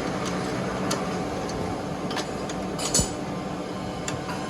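Light metallic clinks and taps scattered over a steady background hum, with a sharper knock about three seconds in.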